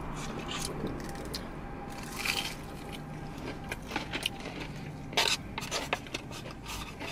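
Close-miked eating sounds: fried chicken wings being bitten and chewed, with scattered small wet clicks and two short louder crunchy bursts, over a faint steady low hum.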